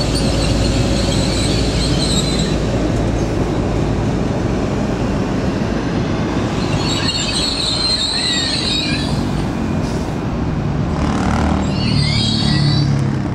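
A train running close by on the rails, with a steady loud rumble and high-pitched wheel squeal that comes in three spells.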